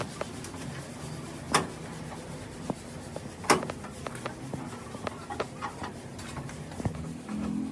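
Scattered light knocks and clicks, two sharper knocks about a second and a half and three and a half seconds in, over a faint low hum.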